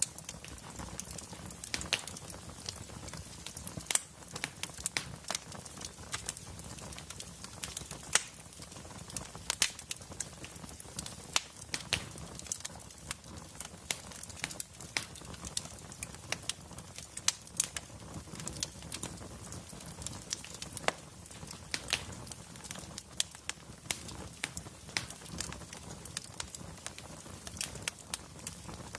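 Wood fire crackling in a fireplace: frequent irregular sharp pops and snaps over a low, steady rumble of the flames.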